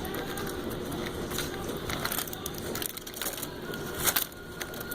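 Handling noise: scattered sharp clicks and crackles over a steady hiss, most likely tongs and wrapped meat being moved about.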